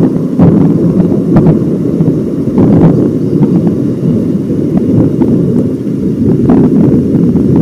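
Loud rolling thunder, a deep rumble with sharp crackles through it, from a nearby lightning strike.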